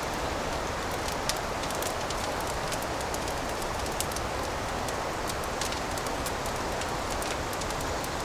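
Wood fire in a fireplace crackling: a steady hiss with frequent small, sharp pops at irregular intervals, a couple of them louder.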